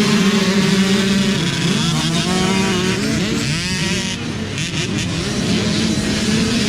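Several mini dirt bike engines running at once, one holding a steady pitch while others rev up and down.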